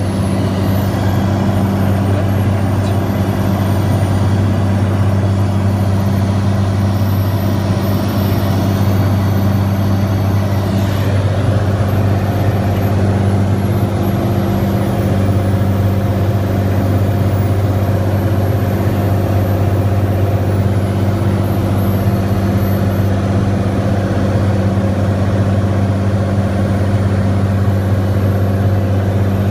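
Cirrus SR22T's turbocharged six-cylinder piston engine and propeller running in a steady, even drone during an approach, with a deep hum and no change in pitch.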